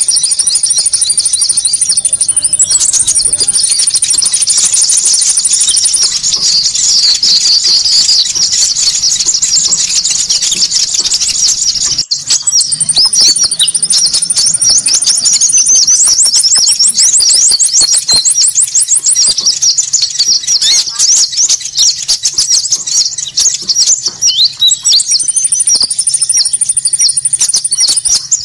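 Bird-lure recording of small songbirds calling noisily: many overlapping high-pitched chirps and twitters, with a fast high trill that comes back every few seconds. The sound breaks off briefly about twelve seconds in and then resumes, as a looped track.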